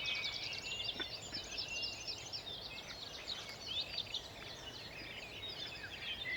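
Dawn chorus: many small songbirds singing at once, a dense, continuous layer of overlapping high chirps and trills.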